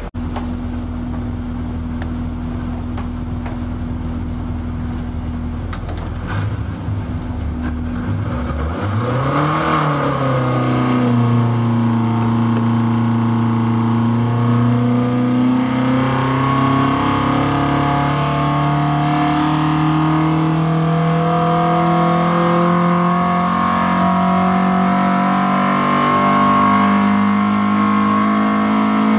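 Ford Pinto 2.1-litre four-cylinder engine on twin Weber carburettors running on an engine dyno. It runs steadily at low speed at first, gives a quick rev about nine seconds in, then its pitch climbs slowly and evenly as engine speed rises, louder from about ten seconds in.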